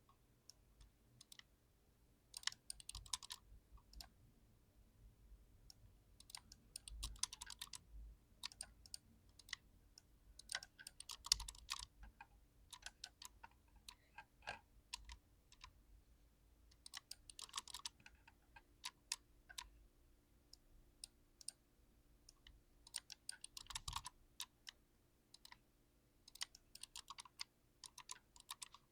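Mechanical keyboard with TTC Red linear switches being typed on: bursts of rapid keystrokes about a second long, separated by a few seconds of scattered single key presses.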